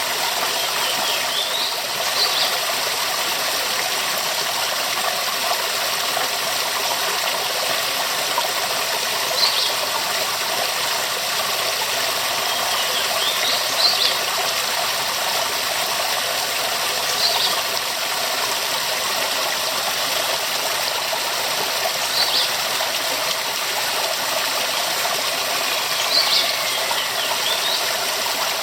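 Waterfall: steady rushing and splashing water, with short high-pitched chirp-like sounds several times, a few seconds apart.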